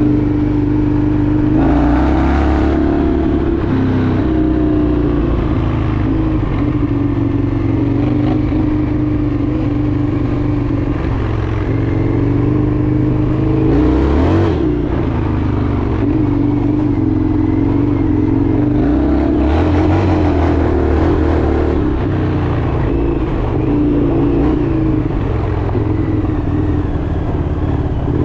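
Indian FTR 1200's V-twin engine running under way, its note rising and falling as the throttle opens and closes, with a few short swells of wind and road noise.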